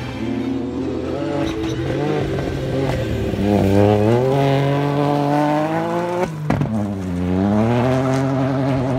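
Rally car engine revving hard on a gravel stage, its pitch climbing through the revs. It breaks off sharply about six seconds in, dips and climbs again.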